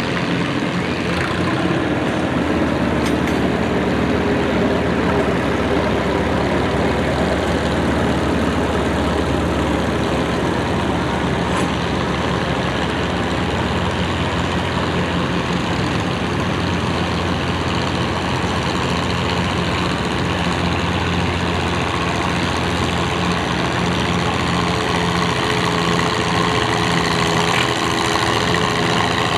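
Antique farm tractor engine running steadily with a low, even drone.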